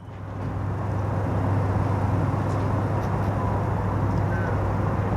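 Steady low mechanical hum of the cruise ship Pacific Venus's engines or generators running, fading in over the first second, with a faint squeak or two over it.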